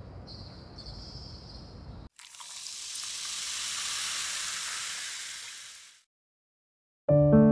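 Outdoor ambience with insects chirping in short pulses, cut off abruptly about two seconds in; then a hiss swells up and fades away over about four seconds. After a second of silence, piano music starts near the end.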